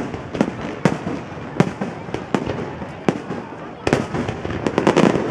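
Aerial fireworks shells bursting overhead: a string of sharp bangs at first about every half second, then coming thick and fast in the last second and a half.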